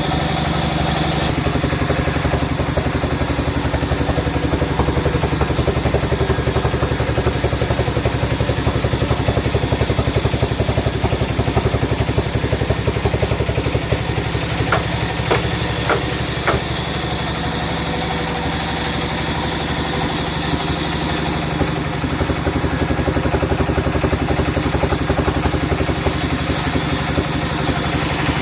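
Engine running steadily with an even, rapid pulse, with a few sharp clicks about halfway through.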